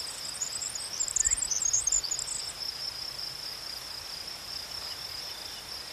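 Insects trilling steadily at a high pitch, with a brief flurry of even higher chirps in the first two seconds or so.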